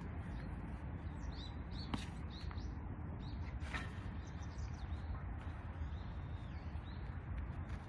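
Small birds chirping in short, scattered calls over a steady low background noise, with a couple of light clicks about two and four seconds in.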